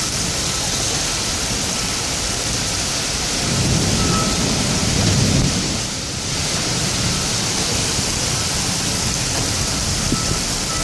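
Heavy rain pouring steadily in a thunderstorm, with a low rumble of thunder swelling from about three and a half seconds in and dying away around six seconds.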